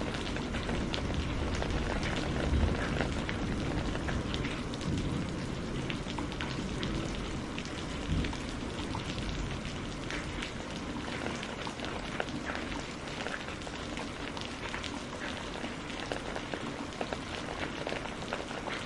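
Steady rain falling, with many separate drops ticking on a surface over an even hiss and a low rumble.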